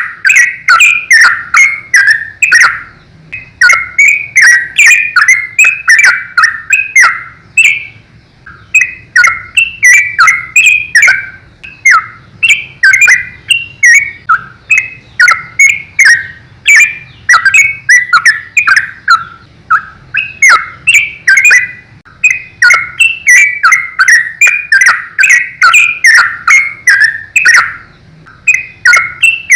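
Yellow-vented bulbul (trucukan) singing loudly in a rapid, continuous run of short notes, several a second, with a few brief pauses.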